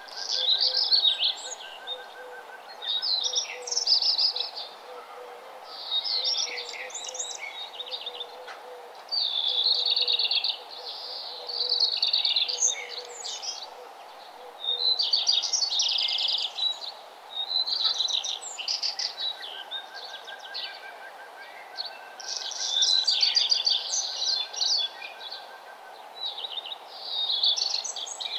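A songbird singing, a short burst of high, chirping song every two to three seconds, over a steady low hiss.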